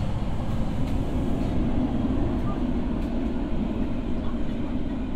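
Interior running noise of an Osaka Metro 20 series train in a tunnel: a steady rumble of wheels on rail with a low motor hum, a little stronger in the middle.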